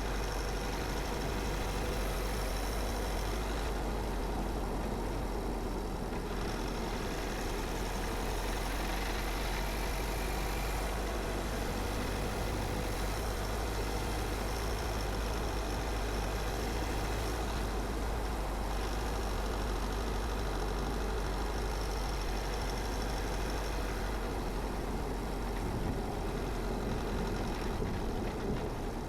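Car driving at a steady pace: continuous engine and tyre noise with a deep rumble.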